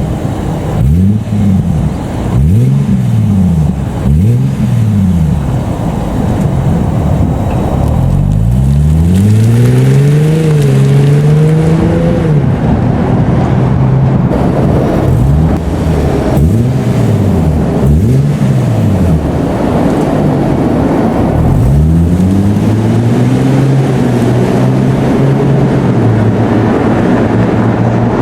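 Nissan Fuga 370GT's VQ37 3.7-litre V6 with an aftermarket sport muffler, revved repeatedly: a run of quick blips, then a longer rev held for a few seconds, and the pattern repeats. Low, deep exhaust note.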